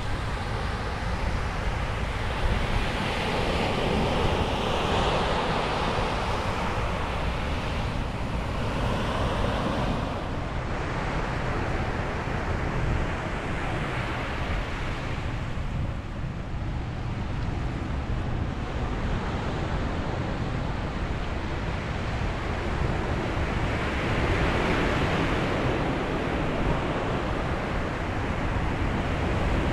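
Ocean surf breaking on a beach, a continuous wash that rises and falls as waves come in, with louder surges a few seconds in and again near the end.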